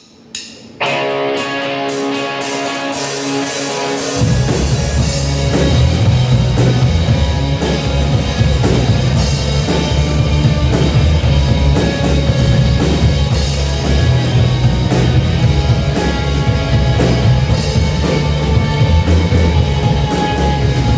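Instrumental intro of a rock song played loud. Sustained guitar or keyboard chords start about a second in, and drums and bass kick in with a steady beat about four seconds in.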